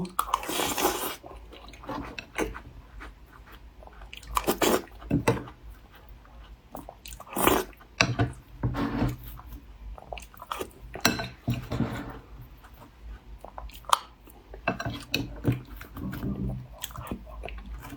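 Close-miked biting and chewing of crumbly taosu, Chinese peanut-oil shortbread cookies, with irregular crunches and crackles, loudest in a few bites.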